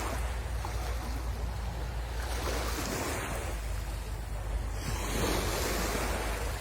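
Sea waves washing onto the shore, surging twice, about two and a half seconds in and again about five seconds in, over a steady low rumble of wind on the microphone.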